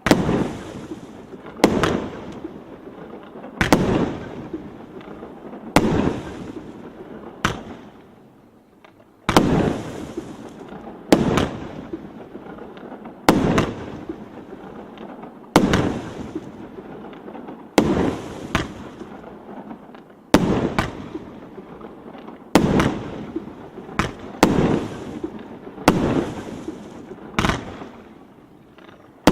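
Andromeda 19-shot, 1.25-inch firework battery firing. Its shots come as a string of sharp bangs about every one to two seconds, closer together in the second half, and each bang fades out over about a second.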